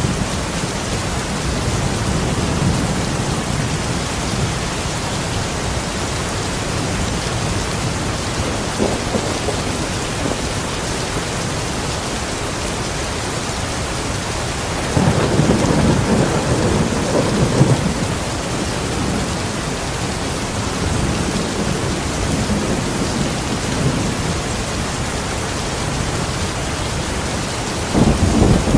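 Steady, heavy rain falling with thunder rumbling under it: a louder roll of thunder about halfway through and another starting near the end.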